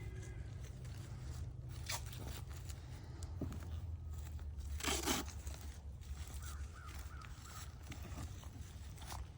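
Handling noises, scraping and rustling, with one brief loud rustle about five seconds in, over a steady low rumble.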